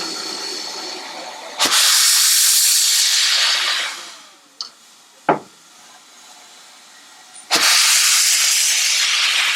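Steam locomotive letting off steam in two loud hissing blasts, each starting suddenly and lasting a couple of seconds, with a sharp knock between them.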